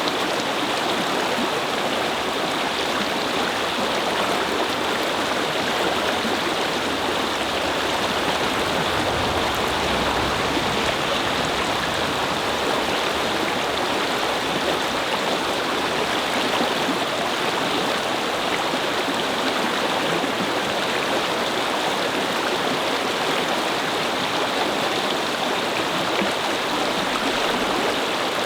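Brook babbling over stones, a steady rushing and gurgling of flowing water, with a faint low rumble briefly about ten seconds in.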